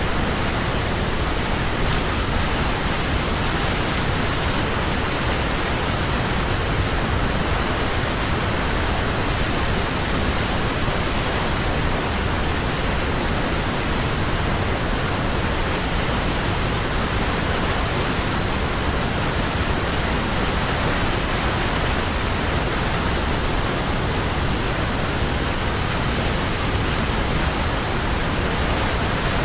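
Waterfall: water falling and splashing in a steady, unchanging rush of noise.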